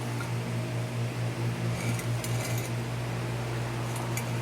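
Steady low mechanical hum, with a few faint light clicks about halfway through and near the end.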